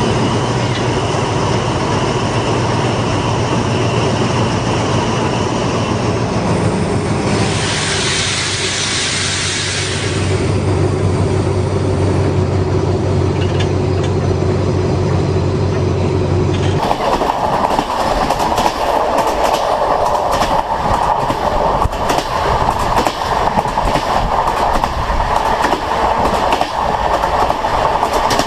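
Train wheels running at speed over rail joints and points, with a steady low hum and a brief rush of hiss about eight seconds in. About seventeen seconds in the sound changes abruptly to a dense, rapid clatter of wheels over the joints.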